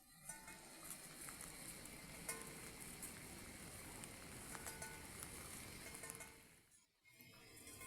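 Heavy rain falling, an even hiss with scattered drop ticks. It dips away to near silence for a moment about seven seconds in, then comes back.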